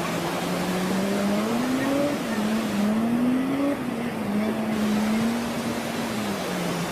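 A motor vehicle's engine running under a steady rushing noise, its pitch climbing and easing back several times as the revs rise and fall.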